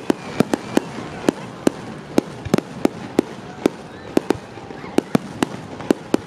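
Aerial fireworks shells bursting in a rapid, uneven series of sharp bangs, about three a second.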